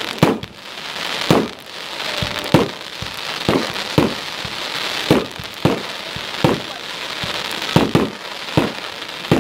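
Firework cake firing shot after shot, about a dozen sharp bangs roughly a second apart, with a continuous crackling hiss from the gold bursts between them.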